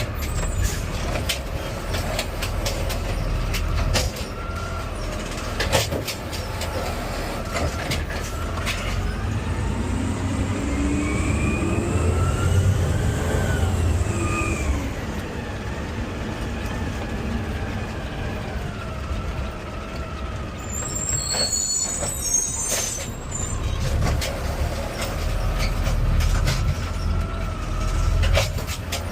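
Garbage truck's diesel engine heard from inside the cab, running steadily with scattered knocks and rattles. Its pitch climbs and then falls back about halfway through.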